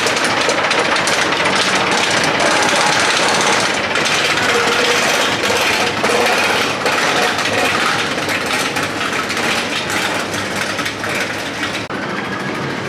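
Loud continuous rapid rattling and clatter with a hiss over it: a ride car running along its track.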